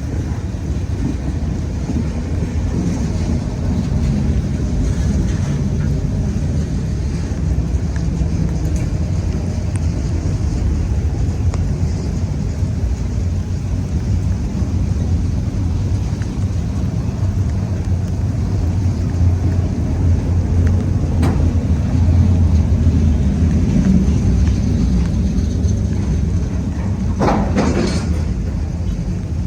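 CSX diesel freight train running past with a steady low rumble, and wind buffeting the microphone. A short, sharper noise cuts through about a second before the end.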